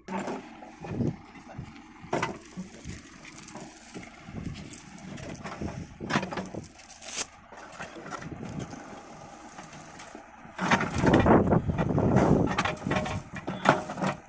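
JCB backhoe loader working: its engine runs under irregular knocks and scraping from the bucket, growing louder and heavier about ten seconds in.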